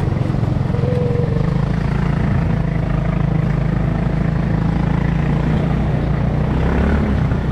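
ATV engine running steadily while riding, a continuous rough low drone.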